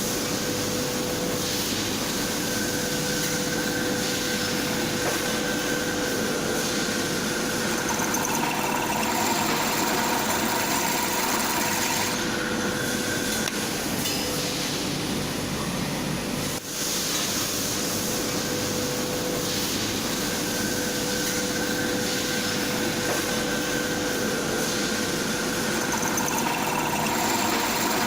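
Hitachi bench drill press running, its electric motor and spindle giving a steady whirring noise with a constant hum, with a brief dip about halfway through.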